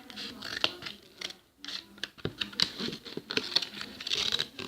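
Large scissors snipping and scraping through the side of a small box as a hole is cut in it: a run of short, irregular clicks and scratches.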